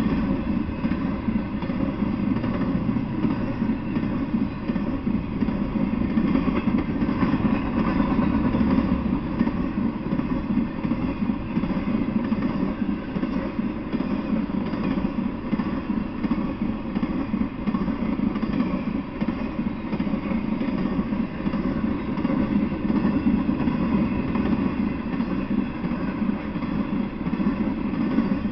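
Intermodal freight train of truck trailers on flatcars rolling steadily past: the continuous noise of steel wheels running on the rails.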